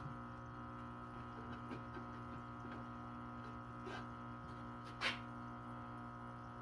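Faint steady electrical hum, with a soft click about four seconds in and another about five seconds in.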